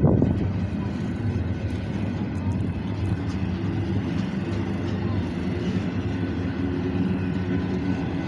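Freight train rolling slowly past: the steady low rumble and clatter of a BNSF double-stack intermodal train's wheels on the rails.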